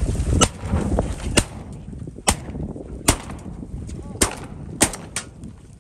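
A string of about seven shotgun shots, sharp single reports at irregular gaps of roughly a second.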